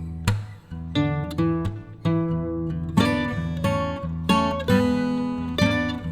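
Background music: an acoustic guitar picking notes and chords, a new one about every half second.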